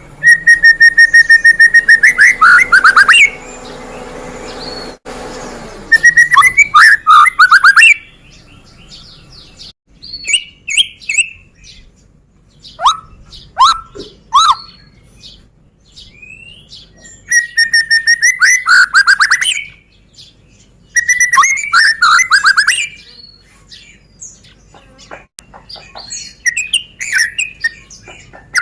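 White-rumped shama (murai batu, Medan type) singing loudly: several bursts of rapid, repeated notes, each lasting two to three seconds, with softer whistles and short downward-sliding notes between the bursts.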